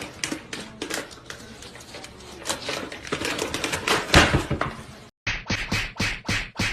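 A fast, irregular clatter of clicks and knocks. About five seconds in it breaks off suddenly and gives way to evenly spaced strokes, about three a second.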